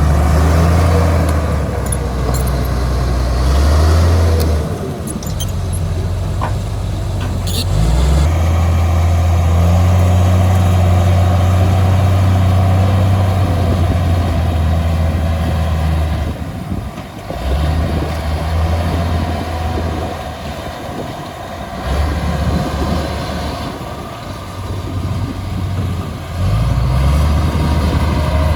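Heavy diesel engine of earthmoving machinery running under changing load, its note stepping up and down. A few short high squeaks come about five to eight seconds in, and the engine eases off for a while in the second half before picking up again near the end.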